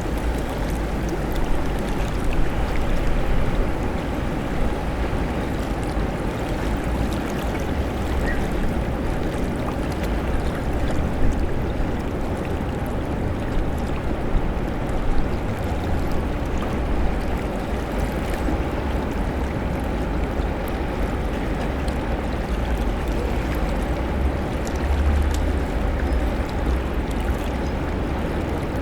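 Outdoor city-park ambience: a steady rushing wash over a deep low rumble, with a few faint clicks scattered through it.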